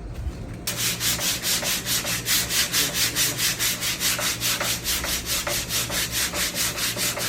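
80-grit sandpaper being rubbed by hand over cured body filler in brisk, even back-and-forth strokes, about four or five a second, starting just under a second in.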